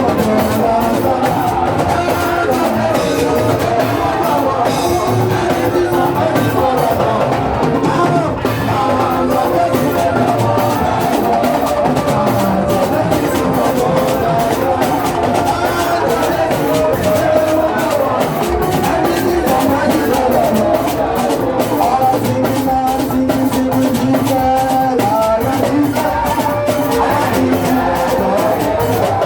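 Live church praise music: voices singing over a steady drum-kit and percussion beat.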